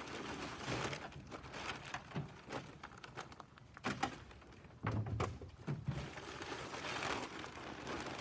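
Irregular knocks, thunks and scraping of scrap metal being shifted around in a pickup truck bed, over a steady rustle.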